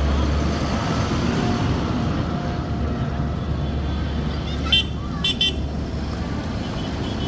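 Tractor engine running with a steady low rumble, and three short horn toots a little past halfway.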